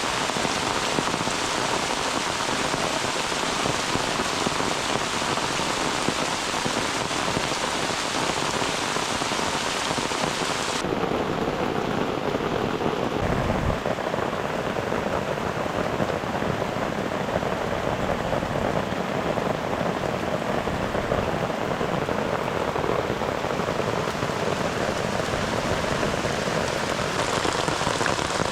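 Heavy rain falling steadily on a tent. About eleven seconds in the sound turns abruptly duller and more muffled.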